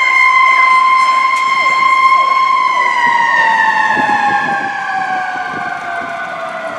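Fire engine siren sounding loud: one held high tone that begins to fall about three seconds in and slowly winds down in pitch.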